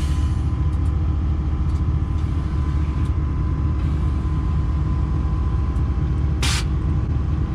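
Motor vehicle running on the road, a steady low rumble, with one short burst of hiss about six and a half seconds in.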